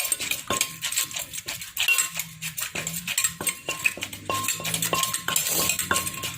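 Pestle pounding and mixing a green-mango salad in a mortar: a steady run of knocks, about two to three a second, each with a short ringing clink.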